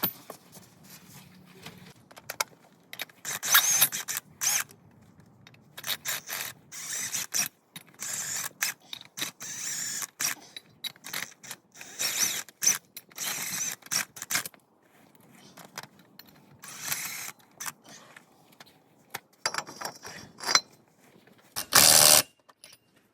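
A hand ratchet clicking in repeated short bursts with pauses between them, and a louder burst near the end.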